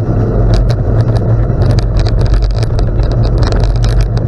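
Riding on a gravel road: wind buffeting the microphone as a steady loud rumble, with tyres crunching over gravel and frequent sharp clicks and rattles from the bike.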